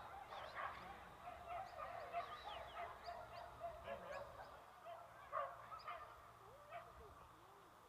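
A flock of birds calling: many short, overlapping chirps and squawks that thin out toward the end.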